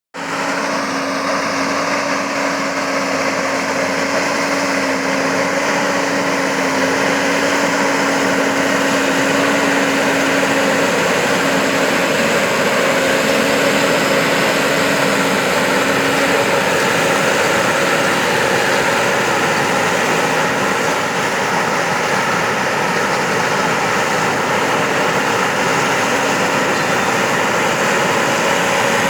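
John Deere tractor's diesel engine running steadily with an even drone.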